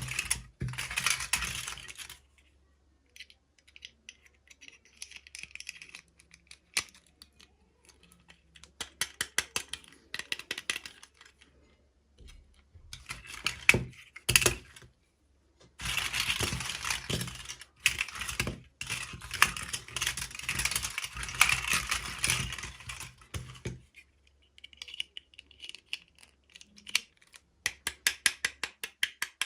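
Plastic toy packaging and small plastic pieces being handled: stretches of crinkling and rustling alternate with runs of quick clicks and taps, with short pauses between.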